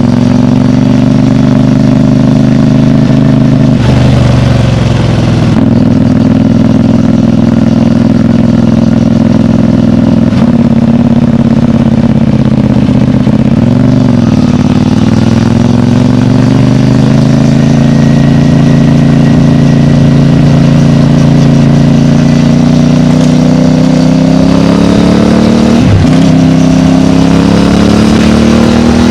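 CFMOTO 450MT motorcycle's parallel-twin engine running through its stock exhaust. The engine speed rises and falls slowly, with brief dips about halfway through and near the end.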